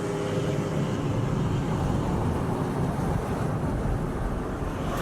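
Car engine and road noise heard from inside a moving taxi: a steady low rumble.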